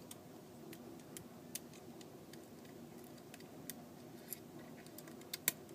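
Small repair tools clicking and tapping on iPhone 4S internal parts while the loudspeaker is being removed: scattered faint, irregular ticks, with a sharper pair of clicks near the end.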